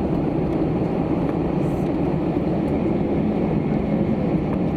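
Steady low rumble of an airliner cabin on the ground after landing, an even drone with no changes.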